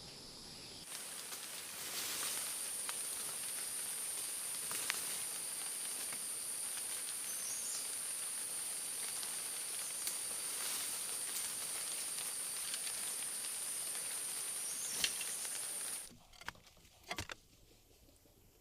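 Steady, high-pitched shrilling of a forest insect chorus, with a couple of brief bird chirps over it; it cuts off suddenly about sixteen seconds in, leaving a quieter stretch with faint clicks and rustles.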